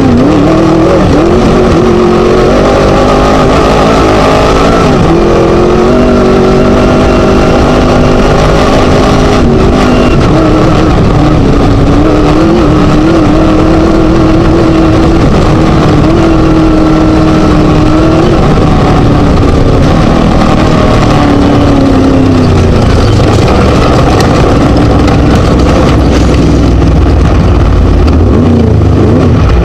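Chenowth DR2 Class 1 desert race buggy's Scat V4 engine running hard. Its pitch rises and falls continually with the throttle, and the sound is very loud throughout.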